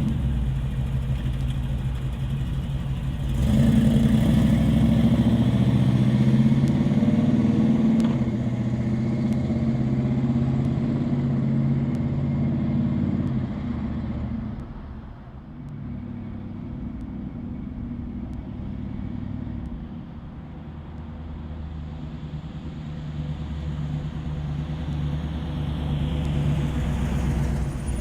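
Chevrolet Impala SS's 327 cubic-inch V8 running. It gets louder a few seconds in and holds there for about ten seconds, falls away around the middle, then builds again near the end.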